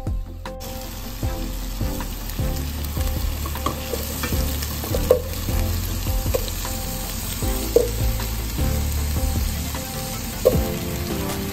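Onion, ginger and garlic sizzling in a stainless-steel pot, starting about half a second in, as the pan is stirred with a wooden spoon and potato and carrot chunks go in; a few sharp knocks against the pot stand out.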